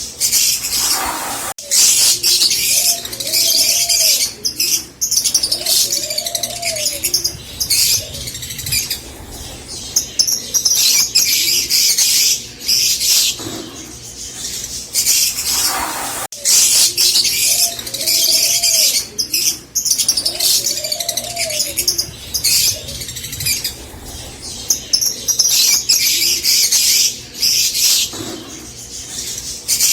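Rosy-faced lovebirds chattering in shrill, rapid chirps that come in bursts, with lower arching cooing notes now and then. The recording loops, repeating itself after about sixteen seconds.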